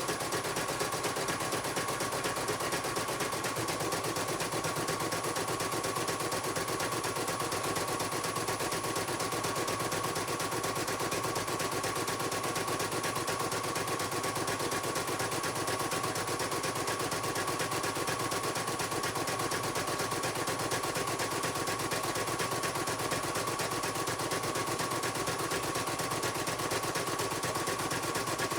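CNY computerized embroidery machine stitching at a steady speed: rapid, even needle strokes with a steady high whine.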